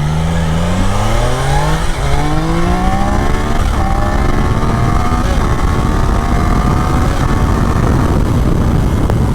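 2024 Triumph Daytona 660's 660 cc inline three-cylinder engine accelerating hard under load, its pitch rising steadily for several seconds before levelling off near the end. Heavy wind rush runs underneath.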